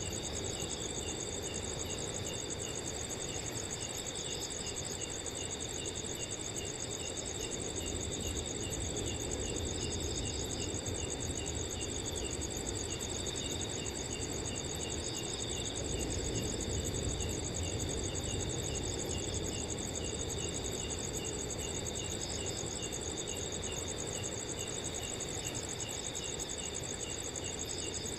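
Several crickets chirping together at different pitches: a continuous high trill and a second cricket giving short, regular chirps, two to three a second. Under them is a low, shifting rush of wind.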